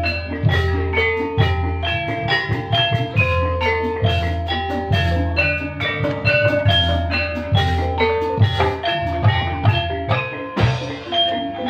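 Ebeg accompaniment music: a quick, dense melody of struck mallet-percussion notes in gamelan style, over drum strokes and a steady low bass.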